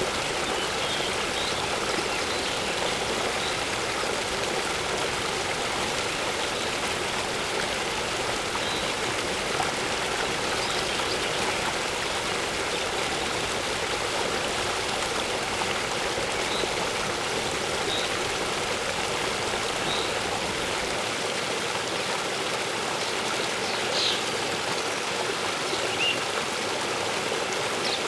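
Waterfall water rushing and splashing steadily, with faint, scattered bird chirps above it.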